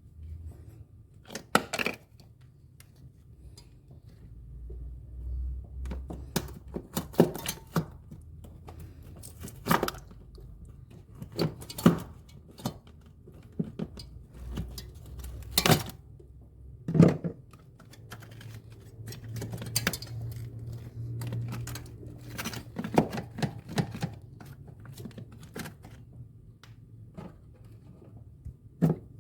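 Irregular sharp clicks and knocks of hand tools and parts being handled during refrigerator repair, with a low hum underneath.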